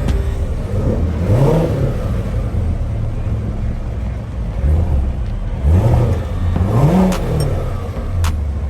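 A car engine revved in short blips at idle, its pitch rising and falling about a second in and twice more past the middle.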